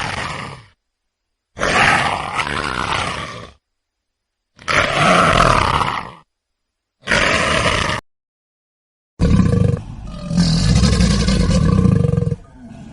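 A series of loud farm animal calls, played as five separate recordings with silent gaps between; the last one is longer, with deep grunt-like calls.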